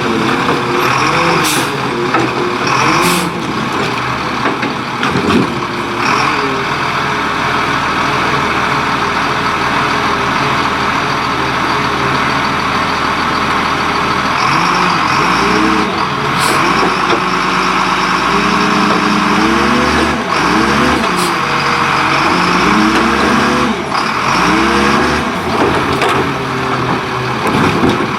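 Garbage truck with a Leach Curbtender rear-loader body, its engine revving up and dropping back again and again, with a few short hisses of air-brake release.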